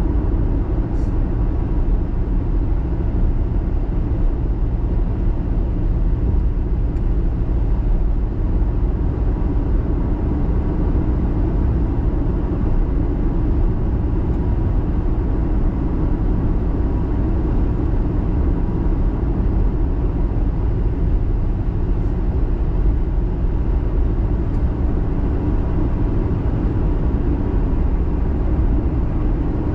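A car driving steadily: an even low rumble of engine and tyre noise that holds without change.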